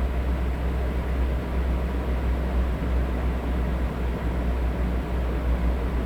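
Electric fan running steadily: an even rushing noise over a strong low hum.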